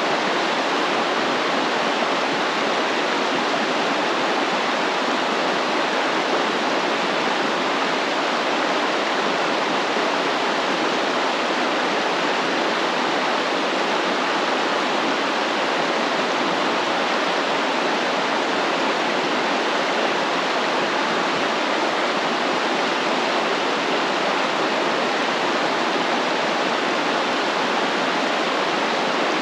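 Stream flowing steadily: an even, unbroken rush of water.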